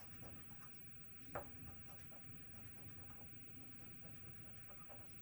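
Faint scratching and small ticks of a scratch-off lottery ticket being worked, with one sharper click about a second and a half in.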